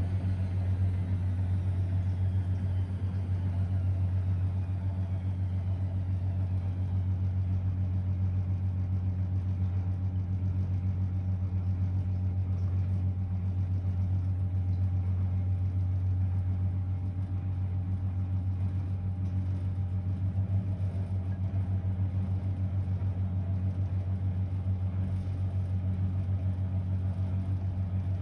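Blomberg WA391 front-loading washing machine running with a steady low hum. Faint falling tones in the first few seconds suggest a motor slowing slightly.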